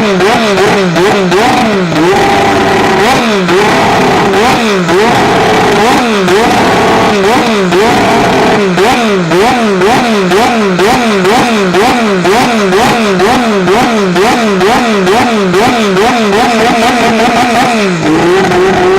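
McLaren MP4/4 Formula One car's Honda 1.5-litre twin-turbo V6 running loud, its revs rising and dropping over and over, about twice a second. Near the end the revs hold steady.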